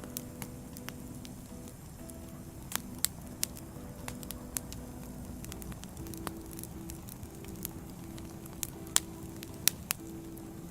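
Firewood burning, crackling, with irregular sharp pops that are loudest a few seconds in and again near the end. Soft held musical notes sit underneath.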